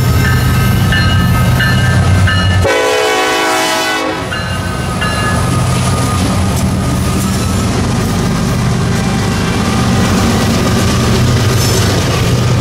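BNSF freight train led by an EMD SD70ACe diesel locomotive passing close by with a steady low diesel rumble; the air horn sounds briefly about three seconds in. Later the trailing locomotive and covered hopper cars roll past.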